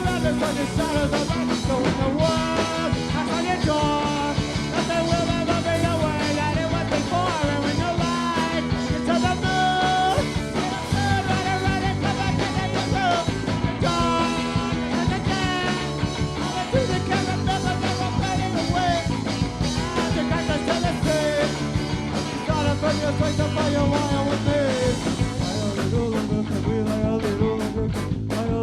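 Live rock band playing loud, with a wavering melody line over bass and drums, ending in a fast run of evenly spaced drum hits.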